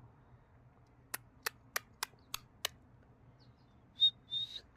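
Six sharp clicks about a third of a second apart, then two short, high bird chirps near the end, the first the loudest.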